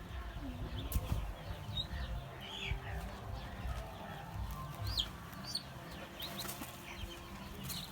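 Month-old chicks peeping: scattered short, high chirps over a low rumble.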